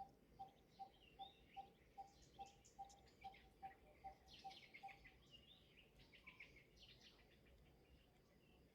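Faint outdoor birdsong: one bird gives a repeated short single-note call about two and a half times a second, stopping about five seconds in, while other birds chirp higher throughout.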